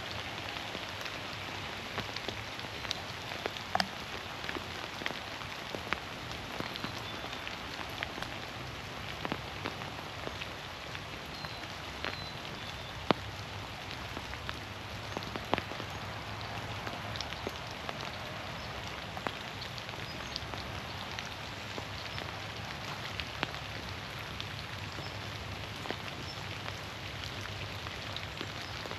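Steady rain falling through the trees of a woodland, an even patter with scattered sharp drop clicks, one standing out about halfway through.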